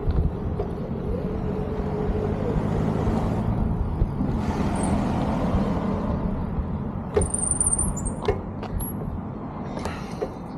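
Road traffic: a motor vehicle's engine running close by and passing, with a swell about halfway through. A short high squeal and a few sharp clicks come about seven seconds in.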